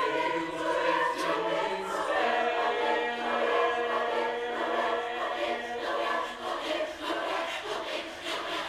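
A group of voices singing together in held chords, the notes changing every second or so.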